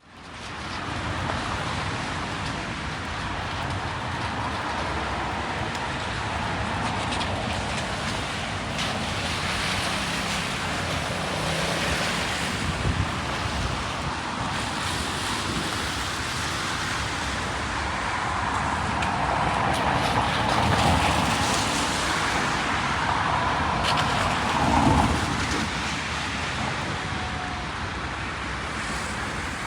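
Steady rain on a city street, with cars passing on the wet road, the loudest pass about twenty-five seconds in.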